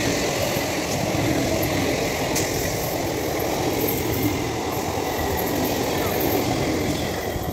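Eastern Railway EMU electric local train passing close at speed: a steady, loud rush of wheels and running gear on the rails.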